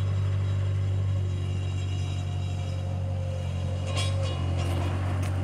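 Bobcat skid-steer loader's engine running steadily, with a few sharp knocks starting about four seconds in.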